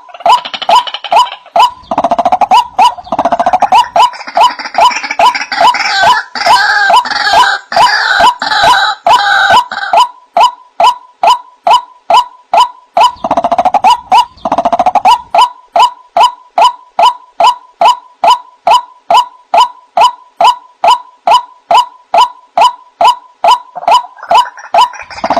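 White-breasted waterhen (ruak-ruak) calling: a fast, even series of short notes, a little over two a second. Harsher, rougher calls sit over the series for the first ten seconds or so and again briefly in the middle.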